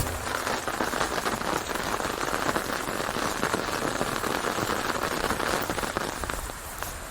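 Rain falling, a dense steady patter of drops on a surface that grows quieter near the end.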